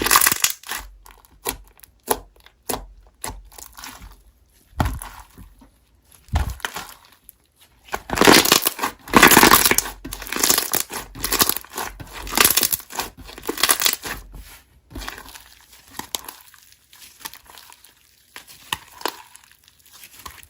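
Slime being squished, pressed and pulled by hand, making irregular crackles and crinkling pops, busiest and loudest about halfway through.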